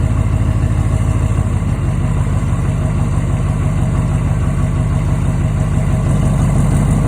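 LMM Duramax 6.6-litre V8 turbodiesel idling steadily while still warming up after a cold start from a week of sitting; its low rumble grows fuller and more pulsing about a second and a half in.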